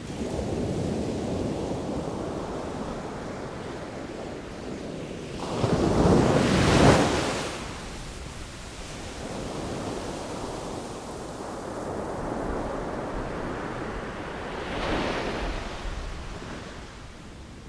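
Ocean waves washing ashore in a steady noisy wash, with one big wave breaking about six seconds in and a smaller one near the end.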